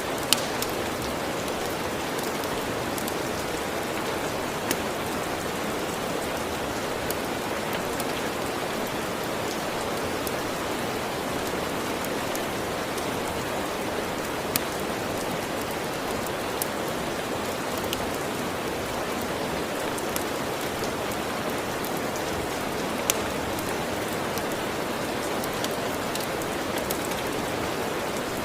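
Steady rain falling, an even hiss, with a wood fire's sharp crackles popping now and then at irregular moments.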